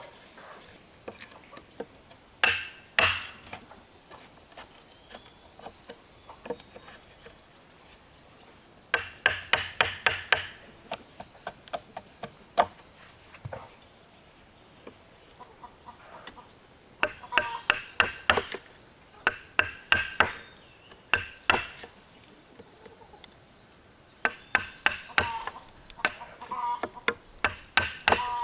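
Hammer blows on wood in quick runs of several strikes, with pauses between runs, as nails are driven. A steady high chirring of insects runs underneath.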